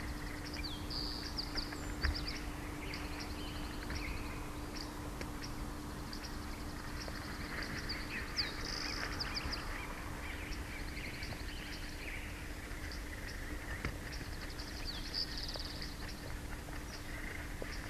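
Small birds chirping and trilling again and again, with a few quick falling notes, over a steady low hum and a low rumble.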